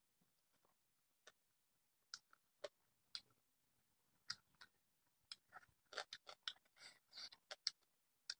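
Faint, scattered wet clicks and smacks of someone eating rice and fried meat by hand: chewing and lip smacks, coming thicker about six to seven seconds in.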